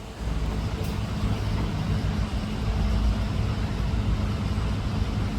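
Low, steady engine drone that starts suddenly and holds an even pitch.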